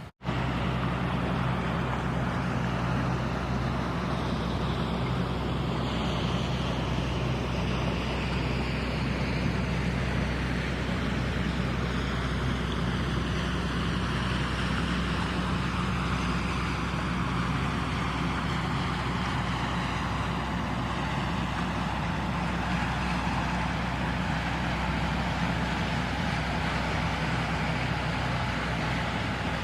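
Steady vehicle engine drone with a rushing noise over it, starting abruptly just after the start and holding at an even level.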